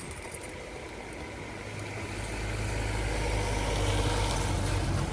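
A motor vehicle's engine running, its low hum growing louder from about two seconds in as it comes closer, over a steady hiss of rain.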